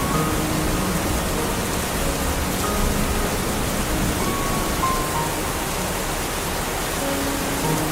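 Steady tropical rain falling, an even hiss, with a few faint brief tones here and there.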